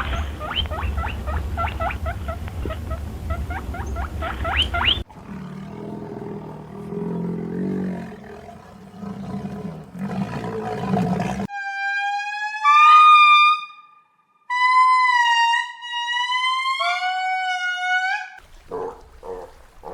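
A run of different animal calls. First come rapid squeaky chirps, about three a second, over a low rumble; then a low, noisy grunting stretch; then two long, clear calls that slide in pitch. Near the end come short pulsed grunts, about three a second.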